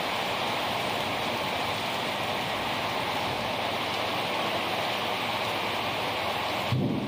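Heavy rain pouring down steadily, a dense even hiss. Near the end a sudden low rumble cuts in over it.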